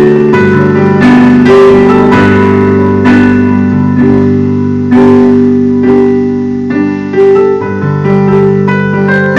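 Solo piano playing a slow, gentle piece: sustained chords and melody notes, with new notes struck about once a second.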